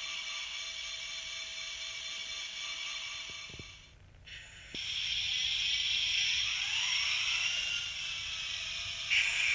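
Small-speaker diesel engine sound from the XL Systems sound decoders in N scale Kato SD70 model locomotives running on track, thin and high with little bass. The sound dips about four seconds in and comes back stronger, with some gliding tones.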